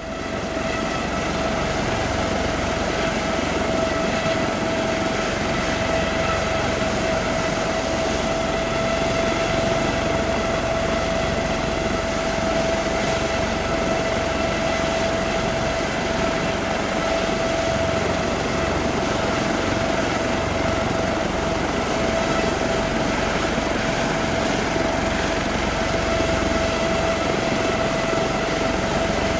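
Helicopter turbine engine running steadily: a constant high whine over a rushing noise, with no change in pitch or level.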